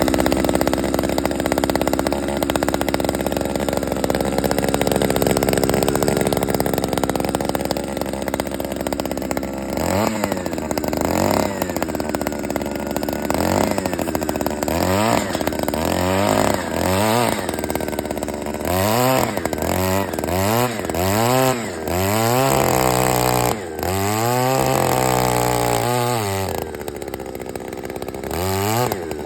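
68cc two-stroke earth auger engine running fast and steady, then revved up and down over and over, roughly once a second, from about ten seconds in.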